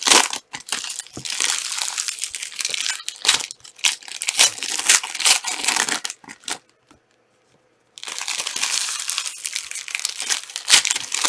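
Plastic trading-card pack wrappers crinkling and tearing as packs are ripped open and handled, in irregular rustling bursts. The sound cuts out completely for about a second just past the middle, then carries on.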